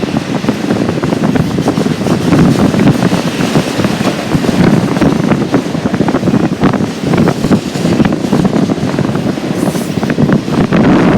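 A freight train rolling past: a steady rumble of wheels on rail with many irregular clicks, mixed with wind buffeting the microphone.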